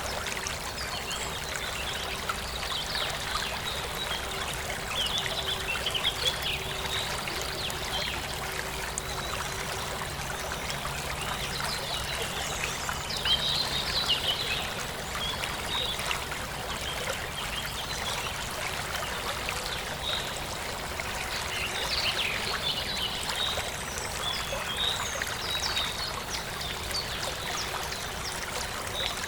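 Small forest stream trickling and babbling steadily over stones, with birds chirping on and off in short high calls throughout.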